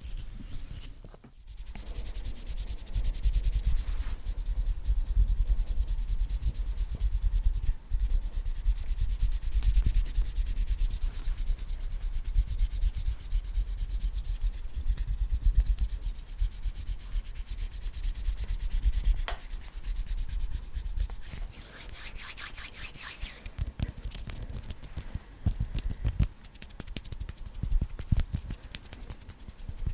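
Fast ASMR hand sounds: bare hands rubbing and brushing together rapidly right at the microphone, a dense run of very quick swishing strokes. It starts after a short pause about a second in, and the strokes become more separate about two-thirds of the way through.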